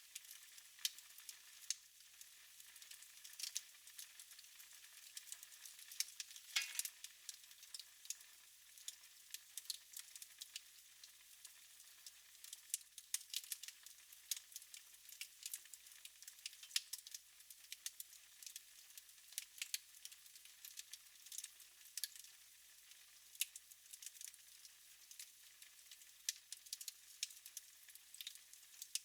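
Wood fire burning in a fireplace, crackling with irregular sharp snaps and pops over a faint hiss. One stronger pop comes about six and a half seconds in.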